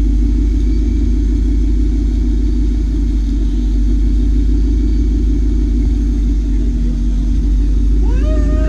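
Car engines running with a steady low rumble. Voices start to come in near the end.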